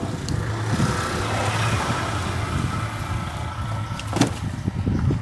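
A car passing by, its tyre and engine noise swelling and then fading over about three seconds, with a single knock near the end.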